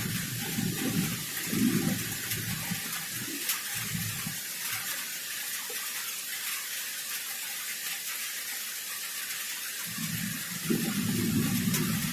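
Heavy rain of a thunderstorm falling in a steady hiss. A low rumble of thunder fades away over the first few seconds, and a new roll of thunder rumbles from about ten seconds in.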